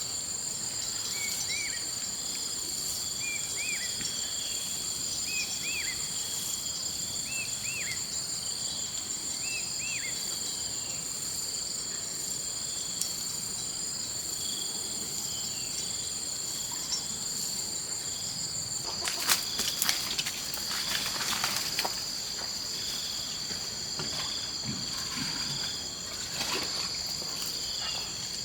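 Steady high-pitched insect chorus. A short rising-and-falling call repeats every second or two for the first ten seconds or so, and a run of clicks and rustling comes about two-thirds of the way through.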